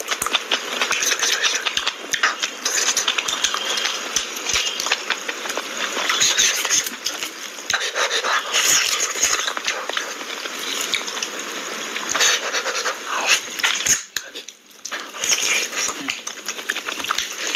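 Close-miked chewing and lip-smacking of a man eating a mutton leg piece in gravy by hand: steady wet, crackly mouth sounds with many small clicks, dropping into a short lull about three-quarters of the way through.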